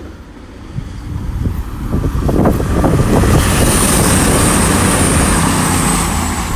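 CrossCountry Class 220 Voyager diesel-electric multiple unit passing through. It grows louder over the first few seconds as it approaches, then goes by at full volume with a thin, high whine for a couple of seconds.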